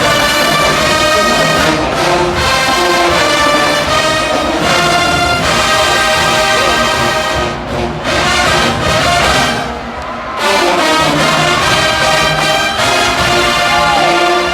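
HBCU marching band playing loud held brass chords over drums, with short dips in the music about eight and ten seconds in.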